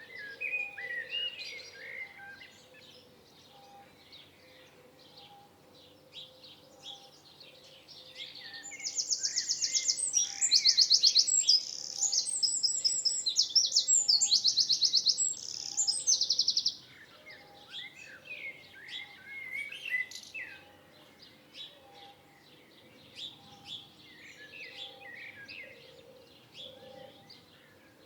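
Several songbirds chirping and singing. From about a third of the way in, one bird sings loudly for about eight seconds in fast rattling trills of rapidly repeated high notes, before the softer chirping carries on.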